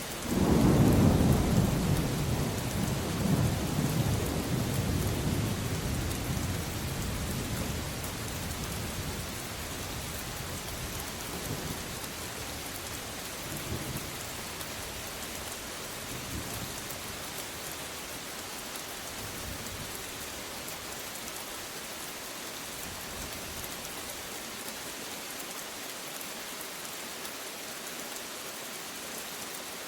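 Steady rain with a thunderclap at the start that rumbles on and fades over about eight seconds, followed by a few fainter rolls of thunder; after that, only the steady rain.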